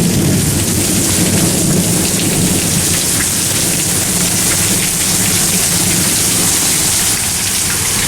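Heavy rain pouring steadily, an even hiss of drops with a low continuous rumble underneath.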